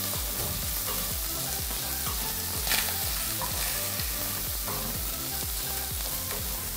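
Chicken pieces and onions sizzling in a hot pan as they are stirred, a steady frying hiss.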